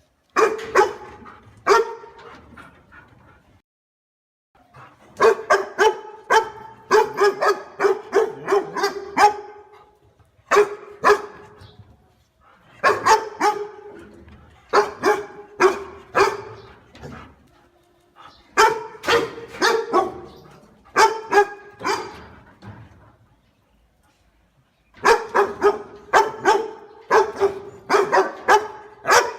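Dog barking in volleys of rapid barks, each volley a few seconds long, separated by short pauses.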